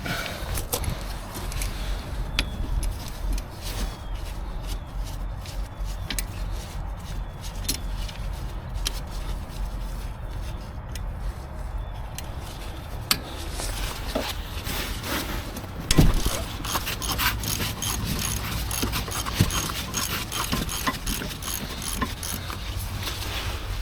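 Hand tools working on a car's brake caliper: metal clinks, scrapes and knocks from a wrench on the caliper bolts, busier in the second half, with one sharper knock about two-thirds of the way through, over a steady low outdoor rumble.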